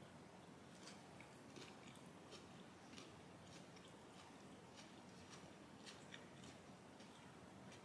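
Faint chewing of crunchy raw shredded cabbage, a run of soft irregular crunches.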